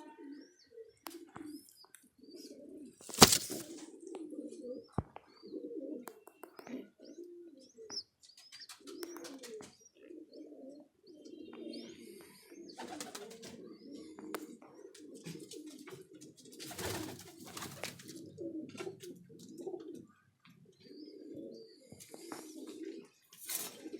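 Domestic pigeons cooing over one another without pause, with faint high chirps among them. A sharp loud knock about three seconds in, and a few brief bursts of noise later on.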